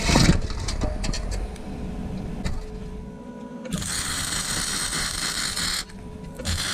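Welding on a Torsen differential, tacking its worm gears solid: a sharp sound at the start and scattered clicks, then a steady crackling hiss for about two seconds that stops briefly and starts again near the end.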